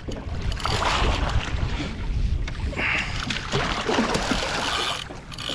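Wind buffeting the microphone over water sloshing against a small boat's hull at sea: a steady noisy rush with a heavy low rumble.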